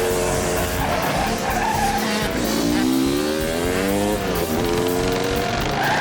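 Motocross bike engines racing, one revving up in a rising whine for about two seconds before dropping back, with tyre skids and music underneath.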